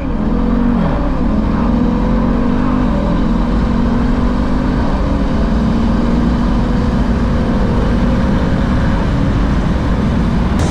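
Supercharged 6.2-litre V8 of a Jeep Grand Cherokee Trackhawk at full throttle on a drag-strip pass, heard inside the cabin. Its pitch climbs and drops back with each automatic upshift, then keeps climbing steadily.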